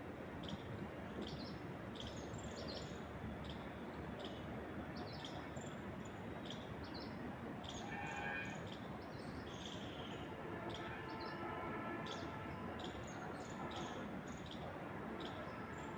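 Steady wind through trees, with many short, high bird chirps repeating over it and a brief lower call about halfway through.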